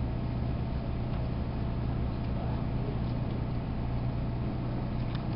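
Steady low hum and rumble inside a Trinity Railway Express commuter train coach, with a few faint clicks near the end.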